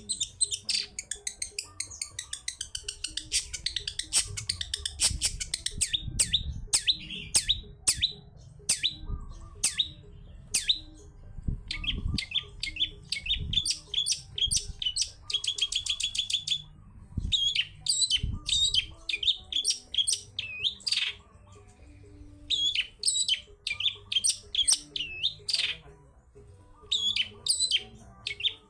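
Long-tailed shrike (cendet) singing a fast, varied song of sharp chirps and sweeping notes, with a quick even trill a little past halfway and a few short pauses.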